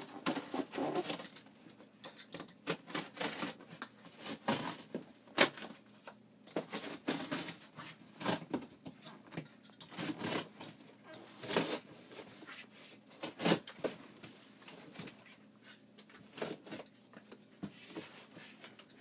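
A cardboard shipping box being cut open along its taped seams with a blade and handled: irregular scrapes, clicks and knocks of the knife and the cardboard.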